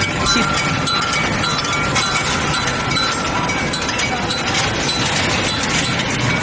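Steel-ball hot-rolling production line running: continuous machine noise with frequent small metallic clinks and a steady high whine.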